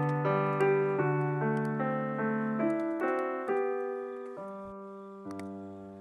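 Background music: a solo piano playing a slow melody with chords, each note struck and left ringing as it fades; fewer new notes come in the second half.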